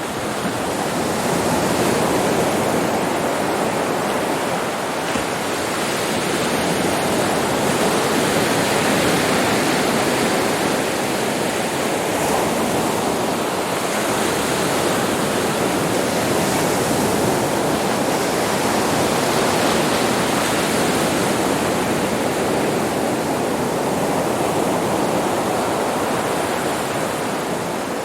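Sea waves breaking on a beach: a continuous wash of surf that swells and eases gently.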